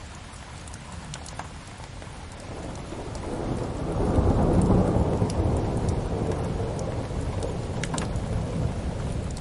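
Steady rain with a low roll of thunder that builds from about three seconds in, peaks near the middle and fades slowly. A few sharp fire crackles sound over it, one near the end.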